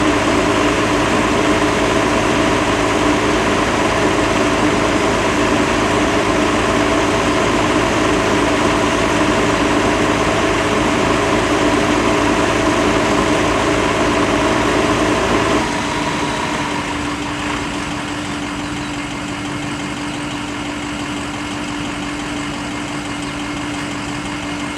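Bucket truck engine running steadily. About sixteen seconds in, part of the noise cuts off and the engine keeps running more quietly.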